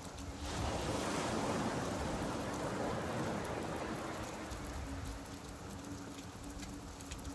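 Rain falling over surf on a beach: a wave washes in about half a second in and slowly ebbs away.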